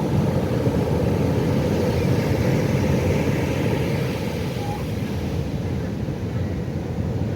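Pacific Ocean surf breaking and washing on the shore, a steady low rumble that eases slightly from about four seconds in.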